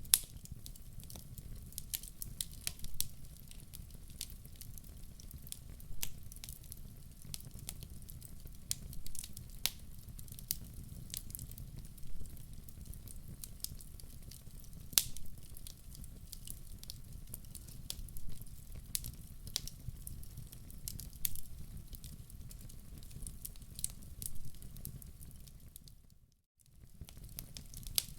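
Wood fire crackling in a fireplace: irregular sharp pops and snaps over a steady low rumble. The sound drops out for about a second near the end.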